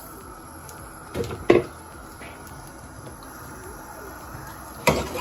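Quiet room tone broken by a few short knocks: two close together about a second in, and one more near the end.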